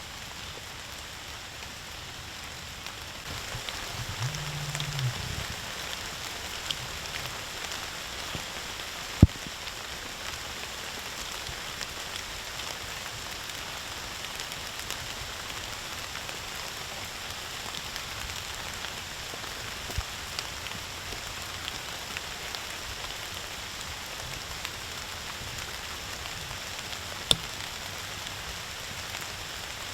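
Steady rain falling and pattering, with a few sharp louder drop hits, the loudest about nine seconds in and near the end.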